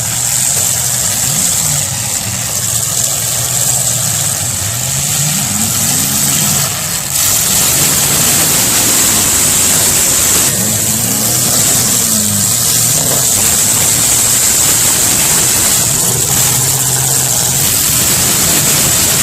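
Engines of several demolition derby cars running and revving, their pitch repeatedly rising and falling. The whole sound gets louder about seven seconds in.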